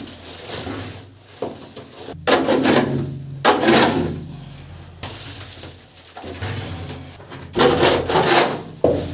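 Rasping, scraping strokes on wood from hand woodworking: a few separate strokes, the loudest near the middle and near the end.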